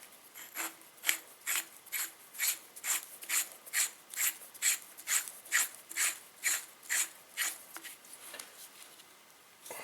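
A threaded metal part of a hydraulic bottle jack being screwed in: an even, rhythmic rasping, about two strokes a second, that weakens and fades out over the last two seconds.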